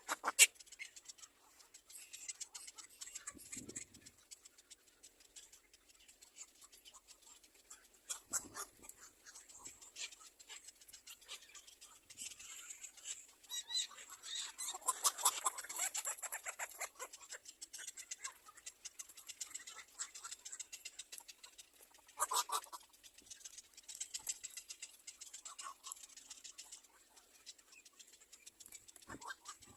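Small birds at a nest: repeated scratching and rustling with high, thin chirping from the nestlings. It comes in bursts, loudest about halfway through and again briefly about three-quarters of the way in.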